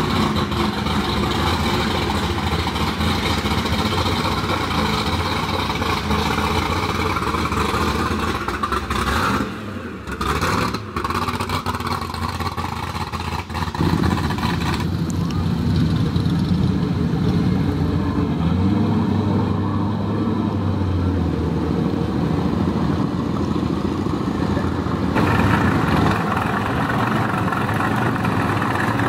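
Engines of modified pro street cars idling roughly and revving as the cars pull away, in several clips joined by abrupt cuts about ten and fourteen seconds in. Near the end comes the supercharged V8 of a first-generation Camaro.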